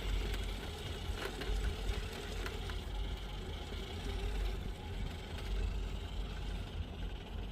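Capra-based RC rock crawler's electric motor and drivetrain whirring steadily as it crawls over rock, with a couple of light knocks from the truck against the rock.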